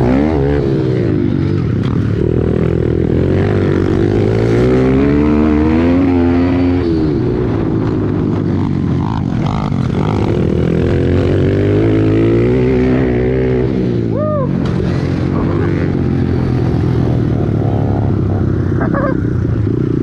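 Pit bike engines racing, revving up and down over and over as the bikes accelerate and shift, with more than one bike running at once.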